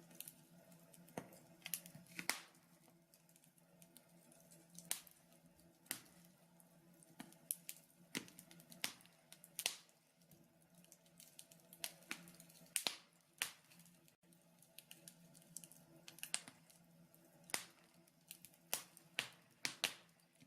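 Wood fire crackling in a fireplace: irregular sharp pops and snaps, some louder than others and bunching several together at times, over a faint steady hum.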